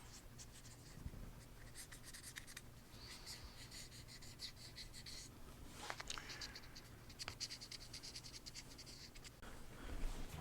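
Faint scratchy strokes of a touch-up paint applicator worked over scraped scooter plastic, in two runs of quick strokes with a short pause between them.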